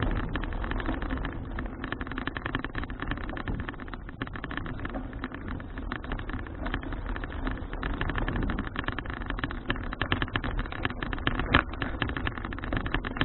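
Riding noise picked up by a bicycle-mounted action camera: a steady low rumble of wind and tyres on the road, with a dense crackle of small rattles and knocks.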